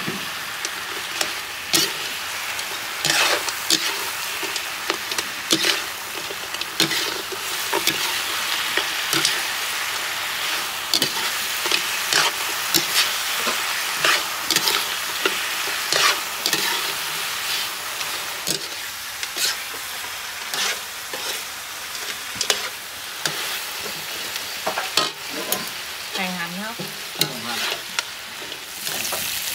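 Fried frogs sizzling in a fish-sauce glaze in a wok, while a metal spatula stirs and scrapes them against the pan in frequent sharp clacks.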